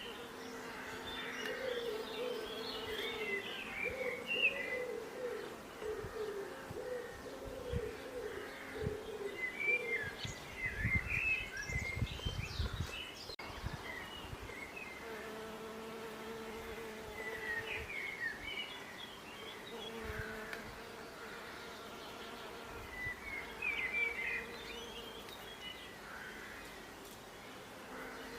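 Bees buzzing in a steady hum, with small birds chirping in short clusters of quick notes every few seconds. A few low thuds and a rumble come near the middle.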